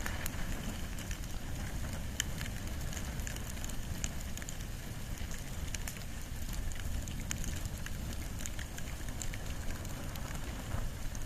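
Wood and bamboo bonfire crackling, with irregular sharp pops and snaps over a steady low rumble.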